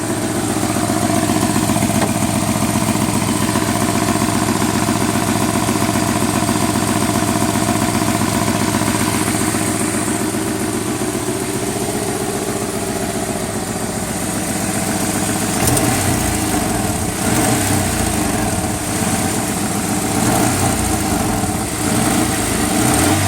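An engine idling with an even firing beat, then blipped up several times about two-thirds of the way in.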